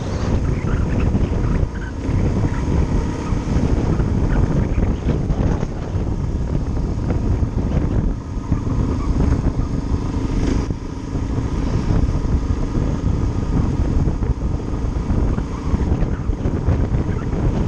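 Suzuki DR-Z400's single-cylinder four-stroke engine running as the bike rides along at town speed, mixed with wind buffeting the microphone.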